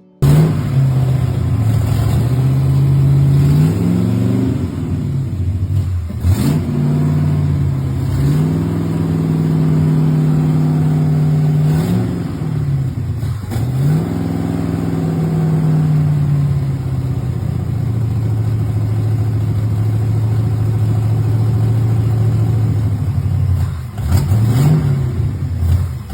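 Car engine idling with the throttle blipped several times, each rev rising in pitch and falling back to idle.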